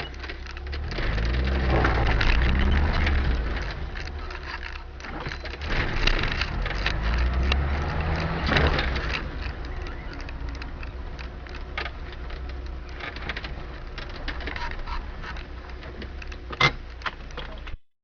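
Car on the move: low engine and road rumble that swells twice, with scattered knocks and rattles and one sharp knock near the end.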